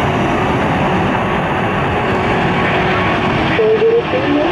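Airbus A380-841's four Rolls-Royce Trent 900 jet engines at takeoff power: a loud, steady rushing noise. A brief wavering voice-like sound cuts in near the end.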